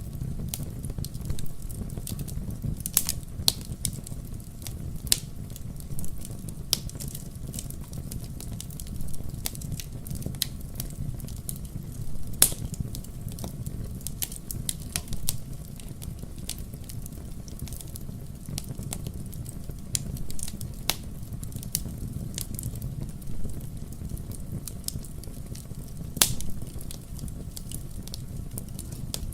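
Wood fire burning in a fireplace: a steady low rumble of the flames with irregular sharp crackles and pops of the burning wood, a few of them louder than the rest.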